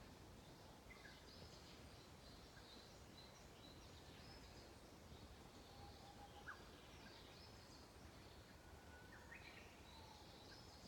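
Wild songbirds chirping faintly against a steady low hiss, with short high calls repeating throughout and a brief lower whistle about halfway through.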